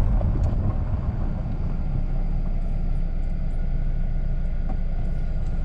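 Steady low rumble of a car on a gravel road, heard from inside the cabin with the driver's window down.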